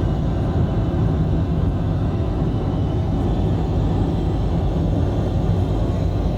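Steady drone of engines and rushing air inside the economy cabin of an Airbus A330-300 in flight, a low rumble that does not change.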